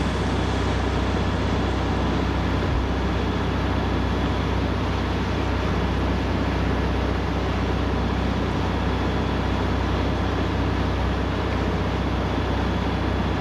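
A boat's engine running steadily: a constant low drone under an even hiss of wind and water noise.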